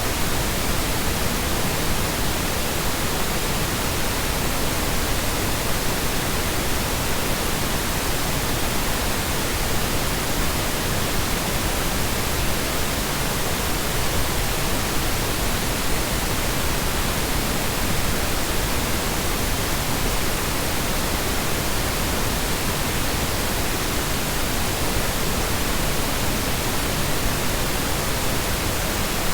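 Steady synthetic noise with nothing else in it: an even, unchanging hiss spread from deep rumble to high hiss, without loops, pulses or shifts in level.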